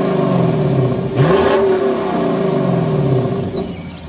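Lexus LC500's 5.0-litre V8 through its stock exhaust, revved in free throttle blips while parked: the engine is falling back from one rev as it begins, revs sharply again about a second in, and drops slowly back to a steady idle.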